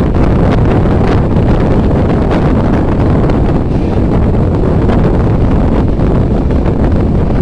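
Indian Railways passenger train running, a loud, steady low rumble with wind buffeting the microphone.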